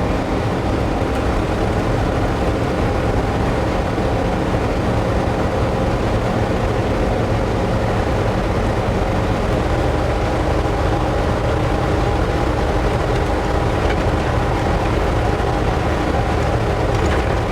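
Ford F-600 dentside truck being driven at a steady speed: a continuous, even engine and road noise.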